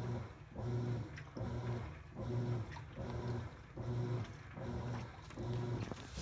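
Top-load washing machine in its wash agitation: the motor hums through each back-and-forth stroke and pauses as it reverses, in a steady rhythm of a little more than one stroke a second.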